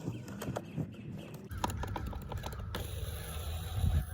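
Small sharp clicks and taps of skateboard wheel parts being handled and fitted onto a truck axle. Wind rumbles on the microphone from about a second and a half in.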